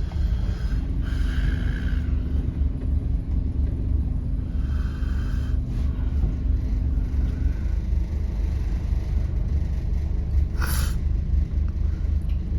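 Low, steady engine and road rumble inside a Scania OMNICity double-decker bus, with a steady hum through the first half and a brief hiss about ten seconds in.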